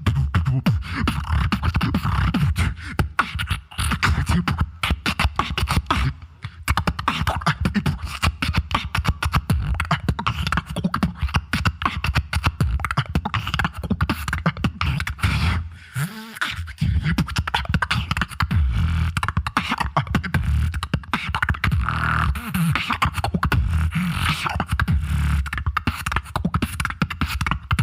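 Solo beatboxer performing a fast, rhythmic routine: sharp click and snare sounds over heavy vocal bass, with a brief break about sixteen seconds in where a rising pitched tone slides up before the beat resumes.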